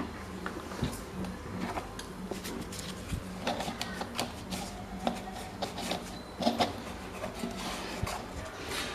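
Scattered clicks and light knocks of hand work on small parts of an old electric fan, over a low steady hum.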